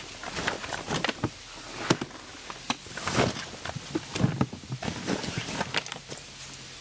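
Irregular rustling with sharp clicks and knocks, several to a second.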